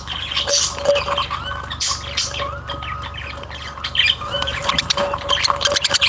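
A flock of cage birds chirping and squawking over one another in quick, continuous calls, over a steady low hum.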